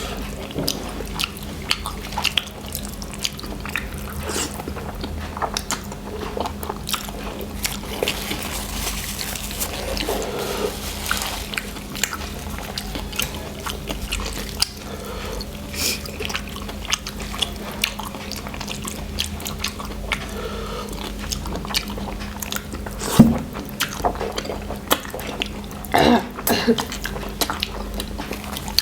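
People chewing and biting into noodles close to the microphone, with many short wet mouth clicks. A sharp knock about 23 seconds in is the loudest sound, and a steady low hum runs underneath.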